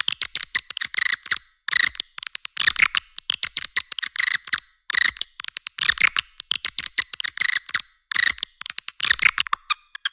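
Swiftlet calling sound: rapid trains of sharp clicks and high twittering chirps, coming in bursts of about a second with short gaps between them. It is a recorded lure call of the kind played to attract swiftlets to a nesting house.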